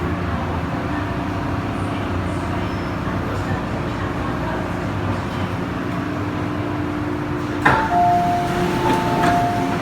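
MTR M-Train on the Tseung Kwan O line, heard from inside the car: steady running noise with a faint hum. Near the end, a sharp click, then a two-note electronic tone held for about two seconds.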